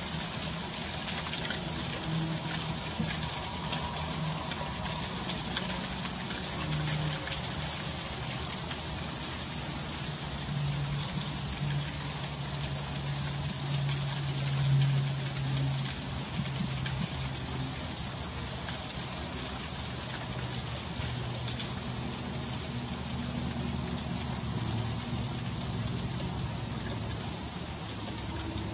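Freezing rain falling steadily, a dense hiss of fine ticks as the ice pellets hit the surfaces. A low hum that wavers in pitch runs underneath.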